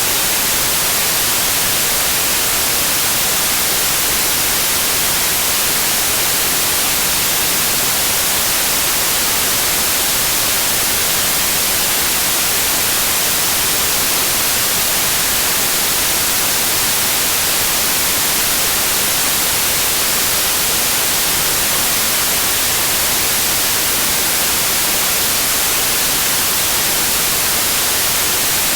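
Steady white noise: an even, unchanging hiss, bright and strong in the treble.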